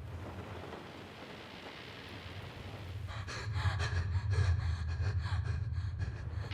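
A person's rapid gasping breaths, starting about three seconds in and lasting a few seconds, over a low steady hum and a noisy hiss.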